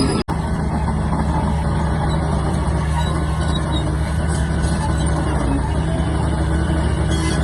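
Diesel engine of a Shantui DH17-C3 bulldozer running steadily, with a split-second gap in the sound just after the start.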